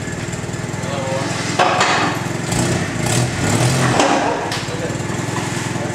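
Engine idling with a steady, even pulse, growing louder and rougher for a few seconds from about a second and a half in, then settling back.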